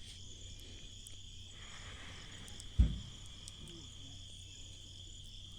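Crickets chirring in a steady, high-pitched chorus, with a single dull thump about three seconds in.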